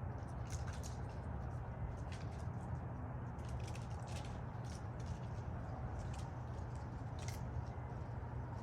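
Mourning doves pecking at bird seed: irregular short clicks and taps, sometimes several in quick succession, over a steady low rumble.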